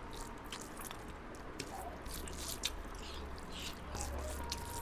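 A person chewing and biting food close to the microphone: soft wet mouth sounds with small irregular clicks.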